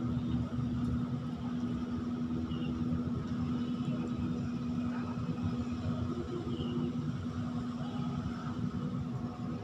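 Steady machinery drone: an engine running evenly with a constant low hum that does not change in pitch.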